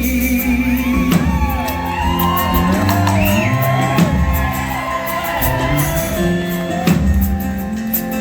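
Live rock band playing an instrumental passage, with a lead melody bending up and down in pitch over a steady bass and rhythm backing.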